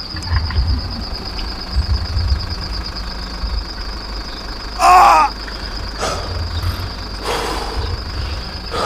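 Low engine rumble under a steady high-pitched whine, with a loud wavering call like a crow's caw about five seconds in and a few shorter, fainter calls after it.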